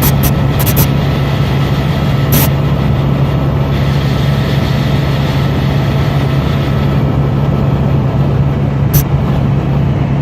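Helicopter in flight: steady loud turbine and rotor drone with a strong low hum, and a few brief sharp clicks near the start, about two seconds in and near the end.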